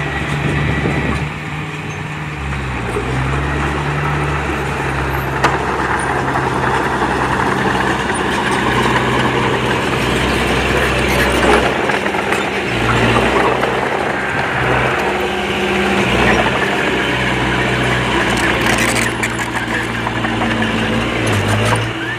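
Heavy diesel earthmoving machinery working, its engine note stepping up and down as it takes load, over a steady clatter, with a sharp knock about five seconds in.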